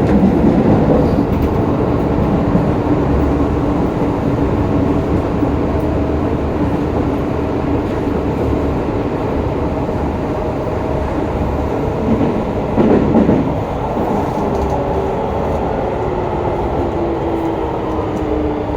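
Running sound inside a Hokuso 7300-series electric train with GTO-VVVF inverter traction: a rail rumble with a steady motor tone. About 12 seconds in there is a brief louder rumble. From about two-thirds through, several motor tones fall in pitch together as the train slows.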